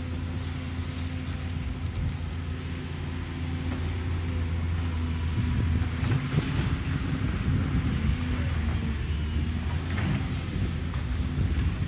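Caterpillar excavator's diesel engine running steadily at a low hum, with rougher crackling noise joining it from about five seconds in.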